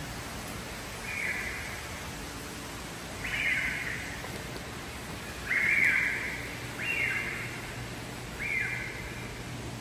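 A bird calling five times, short high calls a second or two apart, over a steady hiss.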